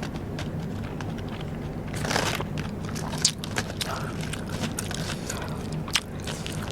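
Close-miked eating of Vietnamese rice paper (bánh tráng): crisp crunching and chewing, with a longer crunch about two seconds in and a few sharp snaps.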